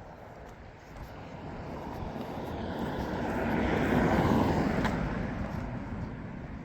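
A vehicle passing by, its rushing engine noise swelling to a peak about four seconds in and then fading away.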